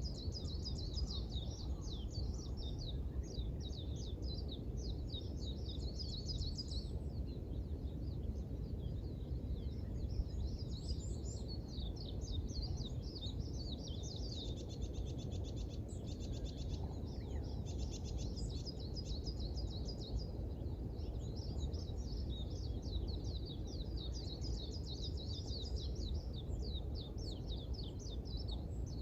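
Songbirds chirping and twittering in long runs of quick high notes, with a faster trill about halfway through, over a steady low rumble of background noise.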